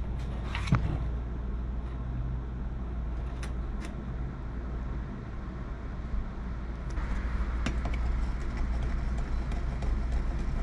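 Steady low hum with a few light clicks and taps as a steel saw blade is lined up on a wooden handle to trace its outline.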